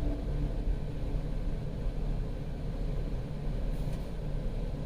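Steady low rumble of the Chrysler Sebring's 2.7-litre V6 engine idling, with a faint short hiss about four seconds in.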